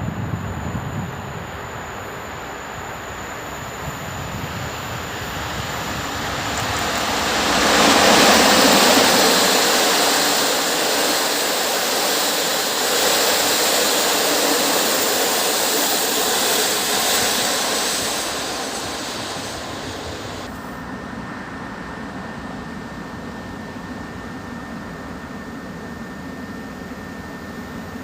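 An InterCity passenger train hauled by an EP07 electric locomotive passing at speed: a loud rush of wheels on rails that builds, peaks about eight seconds in, holds, then fades away. About twenty seconds in, it cuts abruptly to a quieter steady background with a faint high whine.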